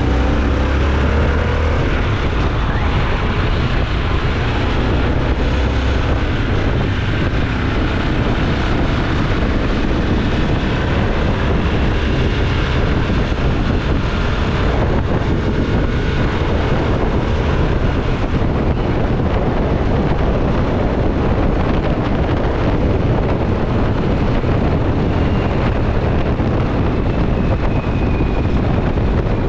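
Motorcycle engine running steadily while riding, with heavy wind buffeting on the camera's microphone.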